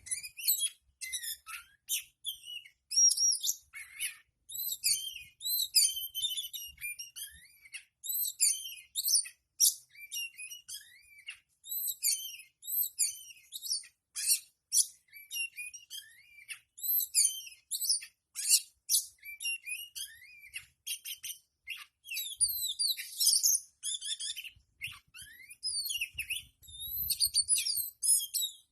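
Oriental magpie-robin (kacer) singing a long, varied, high-pitched song of quick chirps, whistled phrases and rising and falling notes, with only brief gaps. This is the kind of kacer song played to a caged kacer to provoke it into fanning its tail.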